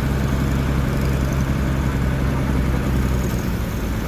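Heavy truck diesel engine running steadily at a low, even speed.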